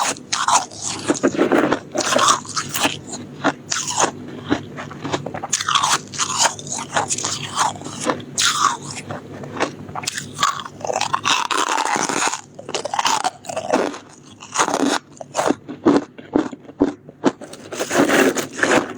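Soft shaved ice or freezer frost being bitten and chewed: dense, irregular crunching in repeated bites with short pauses between them.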